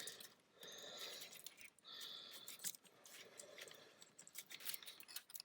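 Faint scattered clicks and light scraping of small plastic retaining clips being worked into place by hand.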